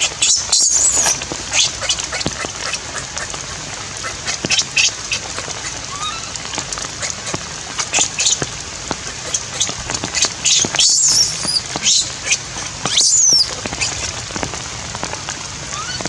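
Baby monkey giving high-pitched distress calls, a few drawn-out squeals that fall in pitch, over the steady patter of rain.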